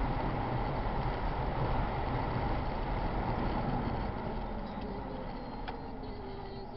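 Car on the move: steady road and engine noise as heard by a dashcam, easing off gradually in the second half.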